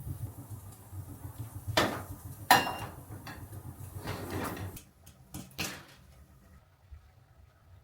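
A few separate knocks and clatters, the loudest about two and a half seconds in, over a low steady rumble that fades out about five seconds in.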